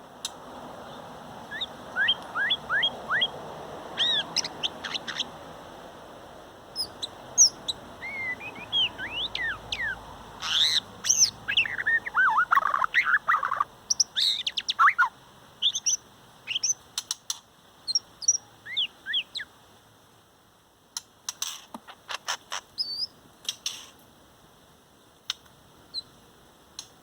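Shama singing: a run of clear, varied whistled phrases with notes gliding up and down, densest toward the middle, followed by a cluster of sharp clicking calls about two-thirds of the way through.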